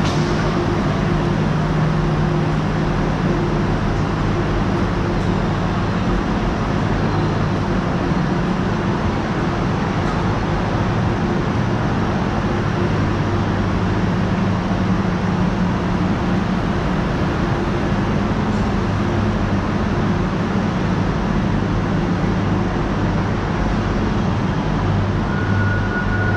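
Steady drone of a Renfe Class 112 high-speed train standing at the platform, its electric power car's fans and auxiliary machinery running with a constant low hum. A thin, steady high tone starts near the end.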